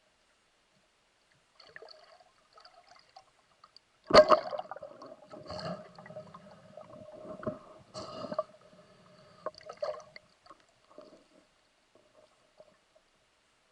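Water gurgling and sloshing, with a sharp knock about four seconds in and further splashy knocks every couple of seconds.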